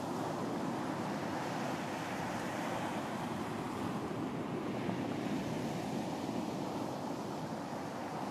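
Ocean surf washing onto a beach, a steady rush of waves with no distinct breaks.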